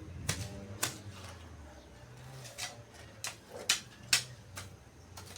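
Irregular sharp clicks and knocks, about seven of them, the loudest a little past the middle, over a faint low hum.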